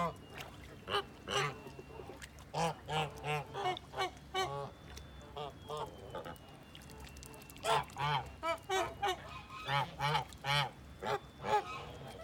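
Farm poultry calling: many short, repeated calls in clusters, with a lull of a couple of seconds midway.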